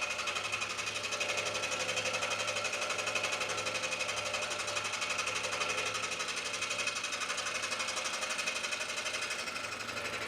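Scroll saw running steadily, its fast up-and-down blade cutting through a thick block of oak.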